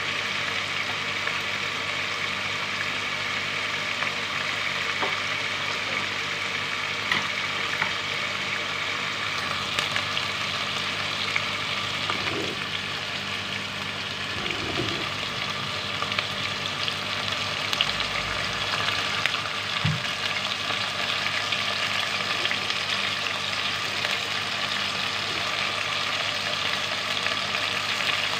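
Chicken and potato pieces sizzling steadily in hot oil in an aluminium pot, with a few faint clicks.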